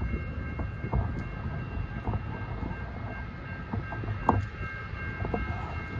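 Approaching freight train led by a GE ES44AC diesel locomotive: a continuous low rumble, with faint steady high tones above it and a few scattered knocks.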